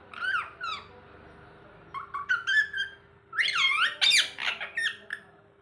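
Rose-ringed (green ringneck) parakeet giving short, high squeaky chirps that swoop up and down in pitch, in three bouts, the last and loudest about three and a half seconds in.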